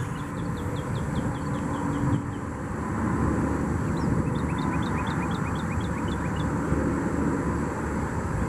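A bird trilling a quick run of high, down-slurred chirps, once at the start and again about four seconds in, over a steady low rumble.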